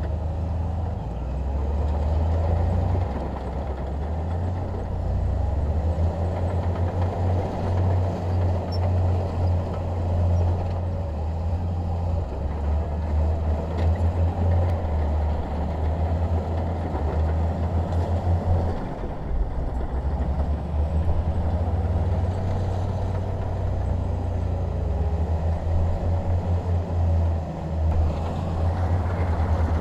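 Komatsu D21P bulldozer's diesel engine running under load as it works, a continuous low rumble that swells and eases a little.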